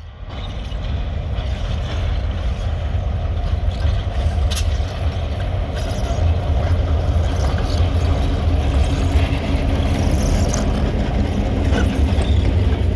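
Short freight train rolling past at close range: a steady low rumble that builds over the first couple of seconds, with a few sharp clicks from the wheels and cars.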